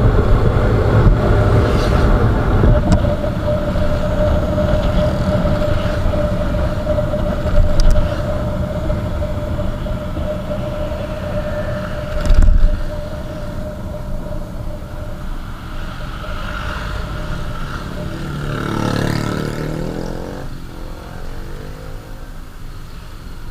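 Riding on a motorcycle: a steady rush of wind and road noise with the bike's engine running at a steady pitch, the engine tone fading about halfway through. There are two brief loud knocks, and another vehicle sweeps past near the end.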